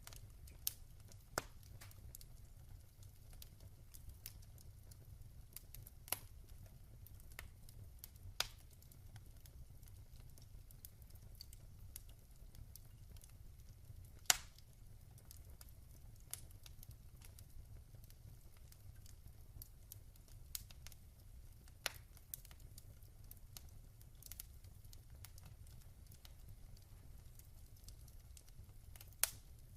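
Wood fire burning in a fireplace: a faint low rumble with sparse, irregular crackles and pops, the sharpest pop about halfway through.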